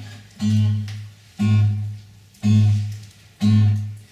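Acoustic guitar strummed alone, about one chord a second with a strong low bass note on each, in the instrumental break between verses of the song.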